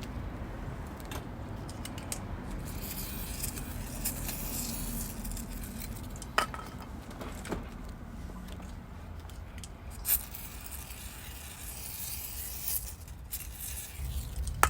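Metal tools and small parts clinking and rattling as they are handled, with a few sharper clicks, over a low steady rumble.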